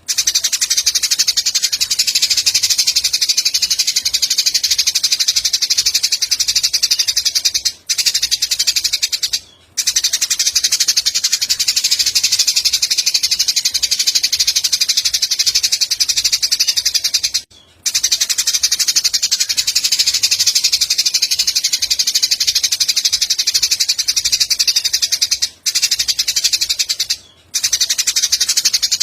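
Recorded Eurasian tree sparrows' fighting chatter combined with cililin song: a dense, fast, high-pitched chattering that runs on without pause except for about five brief breaks.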